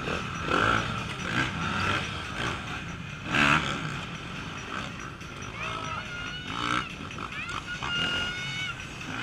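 Off-road motorcycle engines revving as riders work over an obstacle, the throttle blipped in short bursts. In the second half come several revs that climb, hold and fall away.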